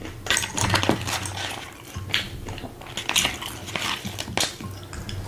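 Spoon and dishes handled close to the microphone: irregular clinks, scrapes and rustles as toppings are scooped onto a taco.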